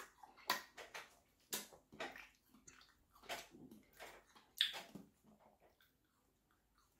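A person chewing juicy watermelon with the mouth: faint, irregular wet clicks and smacks, a dozen or so over about five seconds, stopping near the end.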